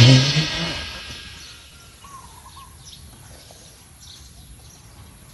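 A loud sudden hit that rings out and fades over about a second and a half, then birds chirping now and then over a low steady outdoor background.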